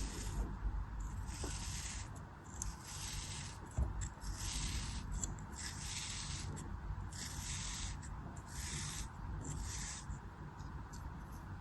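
Blade cutting through a soft, crumbly craft material in a steady run of crisp scraping strokes, about one a second.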